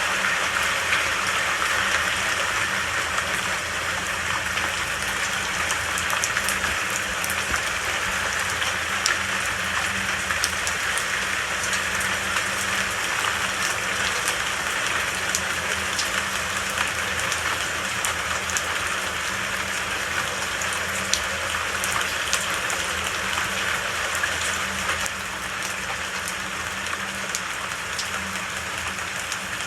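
Steady rain falling, an even hiss with scattered sharp drop ticks; it eases slightly about 25 seconds in.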